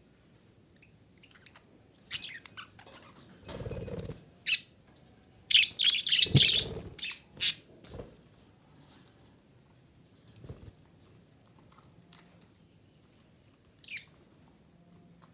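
Female budgerigar chattering in short bursts of chirps, busiest and loudest in the middle, with a couple of low fluttering thumps among them and a single chirp near the end.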